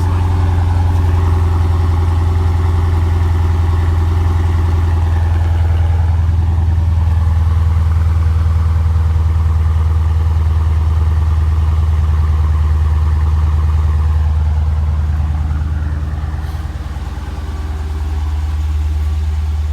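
Dodge Challenger R/T Scat Pack's 6.4-litre HEMI V8 idling steadily as it warms up after a cold start. The idle dips briefly near the end, then comes back up.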